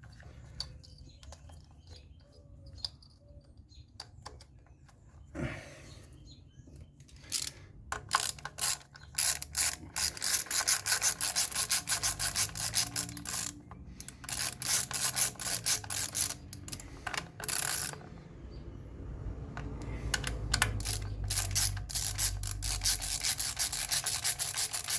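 Hand ratchet wrench clicking in long, quick runs as bolts are turned, most likely the ignition coil hold-down bolts, after a few quiet seconds and with a brief pause midway.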